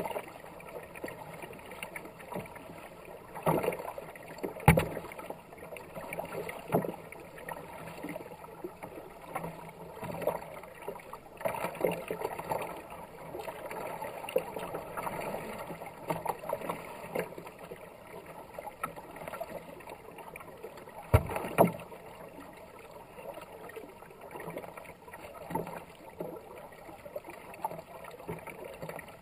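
Kayak paddle strokes splashing and water rushing along the hull on a fast-flowing river. There is one sharp knock about five seconds in and another about twenty-one seconds in.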